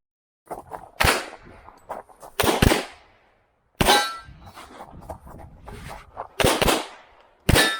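A string of .40 S&W pistol shots from an STI 2011 competition pistol, fired singly and in quick pairs with short pauses between them, with steel targets ringing after some of the hits.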